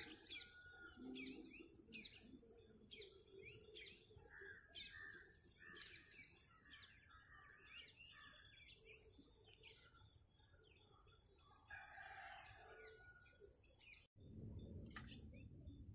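Faint outdoor birdsong: many short descending chirps about once a second, with a quick run of repeated high notes midway and a longer, lower call near the end. A sudden break near the end gives way to a soft steady hiss.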